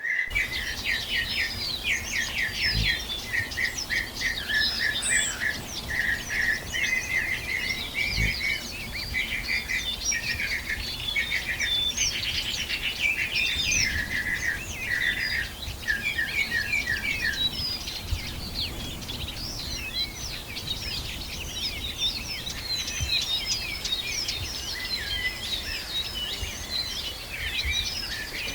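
Several tropical forest birds calling at once, a dense mix of rapid high chirps and short whistled notes. A run of lower repeated notes drops out a little past halfway, and the higher chirping carries on.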